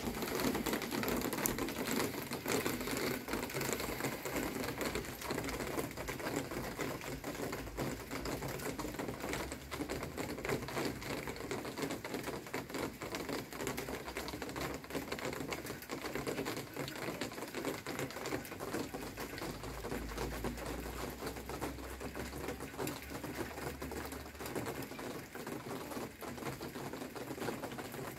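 Light rain falling: a dense, steady ticking of many small drops.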